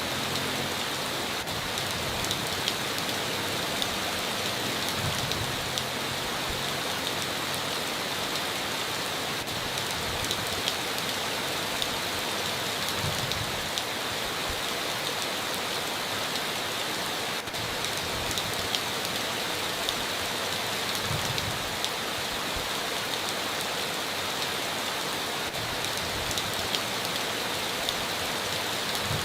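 Steady rain falling, an even hiss peppered with scattered louder drop ticks.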